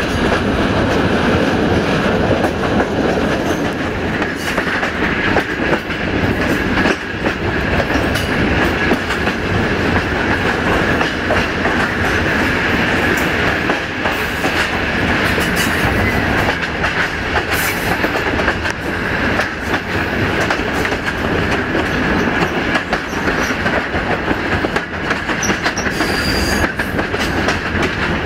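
Railway coach rolling along the track: a steady loud rumble and clatter of wheels on rail, with a high ringing tone held over it throughout.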